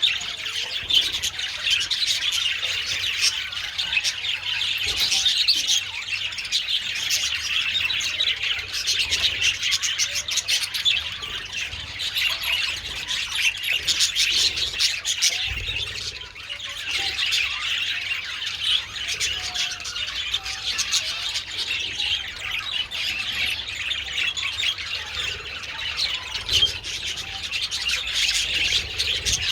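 A flock of budgerigars chattering continuously, a dense overlapping mix of chirps, warbles and squawks.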